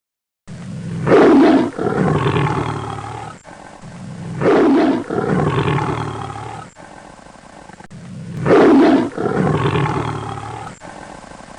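Lion roaring three times, about three and a half seconds apart, each roar starting loud and trailing off over a couple of seconds.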